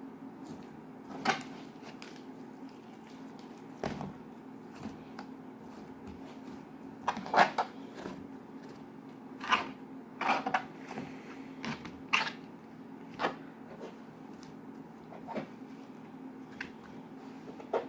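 Irregular sharp clicks and knocks of small objects being handled, about ten over the stretch, the loudest a cluster about seven seconds in, over a steady low hum.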